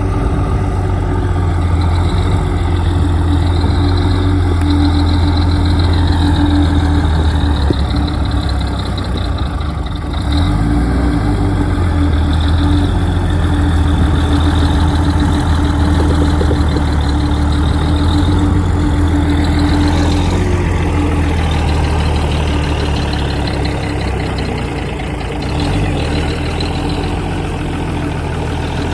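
Bulldozer's diesel engine running steadily with a deep, constant hum, dipping briefly in level about ten seconds in.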